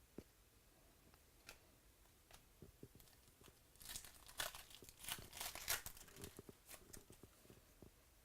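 Faint tearing and crinkling of a trading-card pack wrapper as it is opened, with soft clicks from cards being handled. The rustling is loudest between about four and six seconds in.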